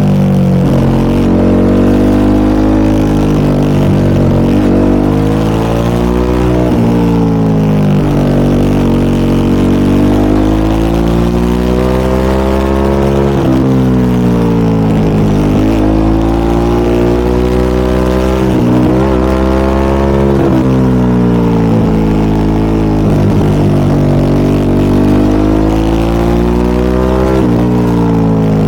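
Harley-Davidson Pan America 1250 Special's Revolution Max 1250 V-twin running through a Scorpion aftermarket exhaust while under way. Its pitch rises and falls every couple of seconds as the throttle is opened and rolled off.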